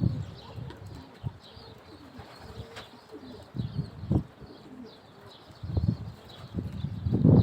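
Domestic pigeons cooing, low pulsing coos in a couple of bouts, the second starting near the end.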